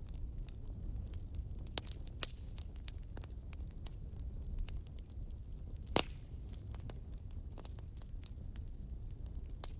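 Campfire crackling: scattered sharp snaps and pops over a low steady rumble, with one louder pop about six seconds in.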